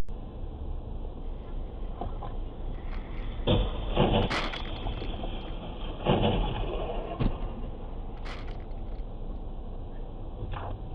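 Steady low rumble of a vehicle, with several short knocks and clicks scattered through it.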